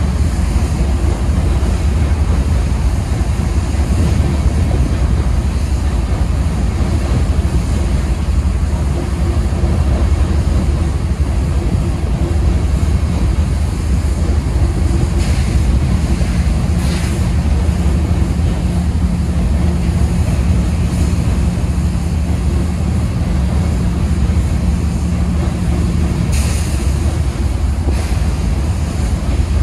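Freight hopper train rolling past, a steady low rumble heavily mixed with wind buffeting the microphone. A steady hum comes in about halfway and drops out near the end, and a few sharp clacks stand out over the rumble.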